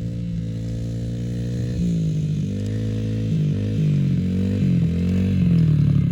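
Yamaha TT-R110's small four-stroke single-cylinder engine running as the dirt bike is ridden. Its pitch rises and falls with the throttle, and it gets a little louder about two seconds in.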